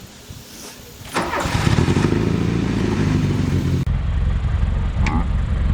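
A 32-year-old car's engine starts about a second in and settles into a steady idle.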